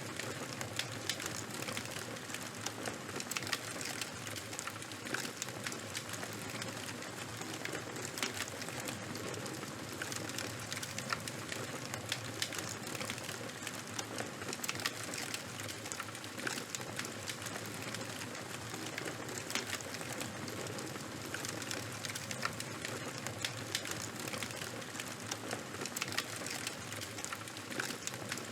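Charcoal and bonfire burning, with a steady hiss and frequent sharp crackles and pops.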